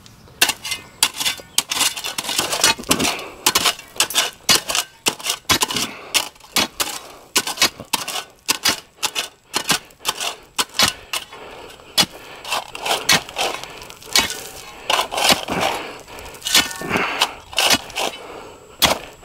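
Hand work on the job: a stream of irregular scrapes, clicks and knocks, several a second, as material is worked and moved.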